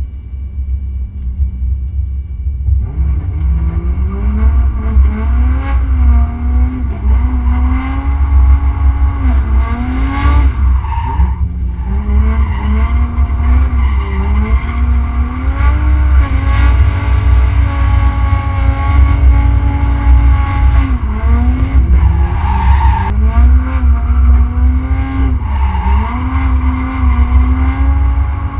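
Mercedes-Benz 190's turbocharged OM606 three-litre straight-six diesel heard from inside the cabin, its revs rising and falling again and again as the car is drifted. A heavy low drone fills the cabin throughout. The engine note comes up about three seconds in.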